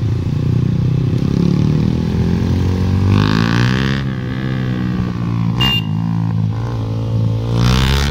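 KTM Duke 200's single-cylinder engine running under way, its pitch sagging and rising with the throttle. Two short bursts of hiss come about three seconds in and at the end, and a brief sharp click about two-thirds through.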